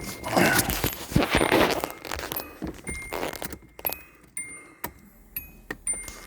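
Car keys jangling as the ignition key is handled, then a string of short high electronic tones and sharp clicks from the 1985 Nissan 300ZX's dash as the ignition is switched on, before the engine is cranked.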